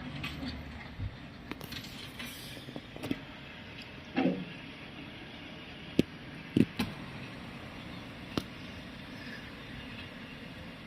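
Scania V8 truck engine on an open exhaust running at a steady low idle, with a few sharp clicks and knocks over it, the loudest about six seconds in and again just after.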